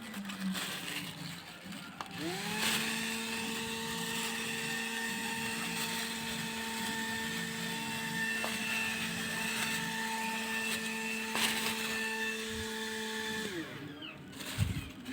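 Small motor of a homemade mini table fan whining as it spins up about two seconds in. It runs at a steady pitch, then winds down and stops near the end.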